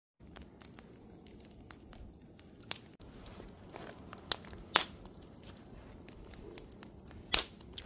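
Wood fire crackling: a soft low hiss with scattered sharp pops and snaps of burning wood, a few louder ones a little under halfway through and near the end.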